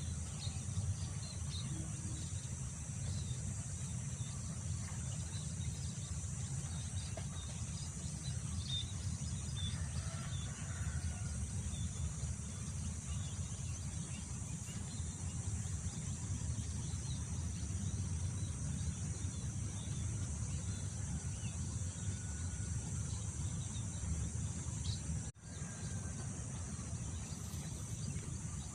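Wind rumbling low on the microphone under a constant high hum of insects such as crickets, with faint scattered bird chirps. About 25 seconds in, the sound cuts out for an instant.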